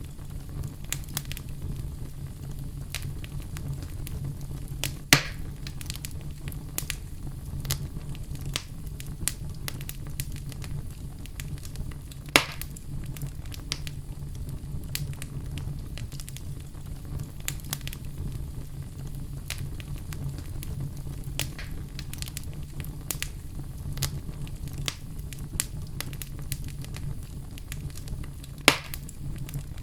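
Wood fire in a fireplace crackling, with a steady low rumble of the flames under a constant scatter of small crackles. Three louder sharp pops stand out, about five seconds in, about twelve seconds in and near the end.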